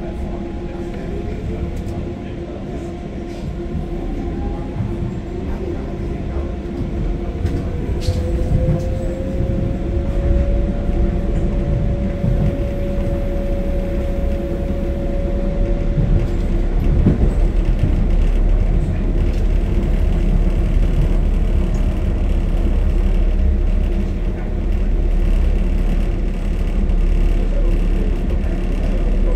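Docklands Light Railway electric train running on the track, heard from inside the leading car: a steady low rumble of wheels on rail, under a motor whine that rises in pitch over about the first ten seconds as the train gathers speed, then holds steady and fades away.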